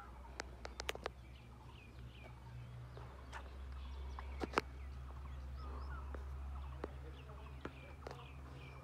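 Small birds chirping faintly and repeatedly over a low, steady rumble, with a scatter of sharp clicks or taps.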